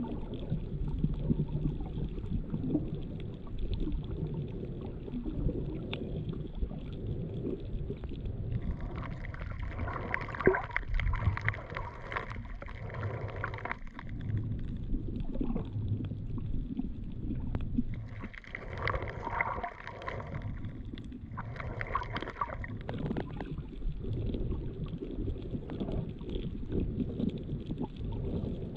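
Underwater ambience picked up by a submerged GoPro Hero7's own microphone: a muffled low rumble and gurgle of moving water. Twice, about nine seconds in and again about eighteen seconds in, a higher steady hum rises over it for a few seconds.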